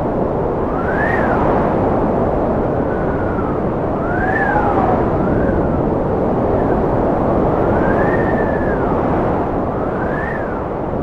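Strong cold wind blowing with a steady rush, overlaid by a howling whistle that rises and falls in pitch several times.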